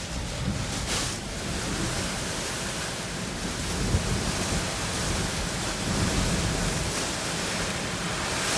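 Hurricane-force wind and driving rain blasting against a car: a steady rushing noise with deep buffeting that swells in gusts, about four and six seconds in, and grows a little louder toward the end.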